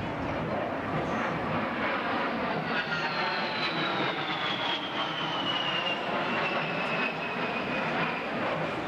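Airplane flying past at an airshow: a steady engine noise with a thin high whine that falls steadily in pitch over several seconds as it goes by.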